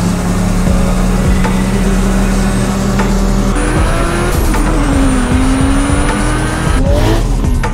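The turbocharged 1G-GTE straight-six of a 1989 Toyota Soarer, built out to 2.4 litres with an HKS stroker kit and a single turbo, pulling the car along the road. Its note holds a steady pitch for about three seconds, then falls and climbs again.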